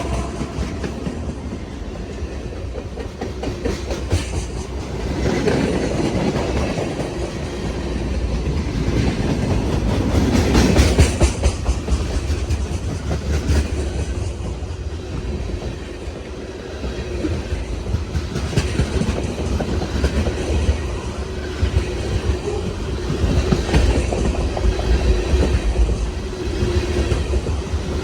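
CSX freight train rolling past, its wheels clacking over the rail joints in a steady, dense run of clicks over a low rumble.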